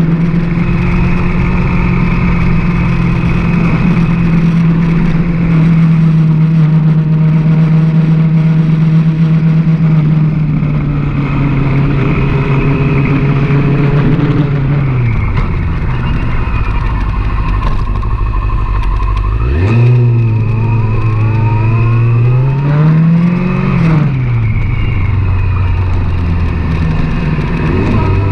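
Sport motorcycle engine heard from the bike itself while riding. It holds a steady speed, then drops back about halfway through. It revs up sharply, rises and falls once more, then settles at a lower steady speed near the end.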